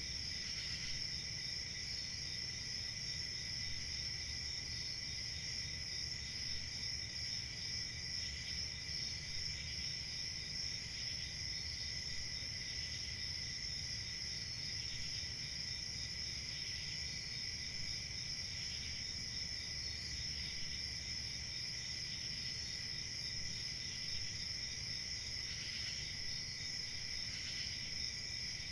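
Crickets chirping in a dense, steady chorus, with a fainter call repeating every second or so over it.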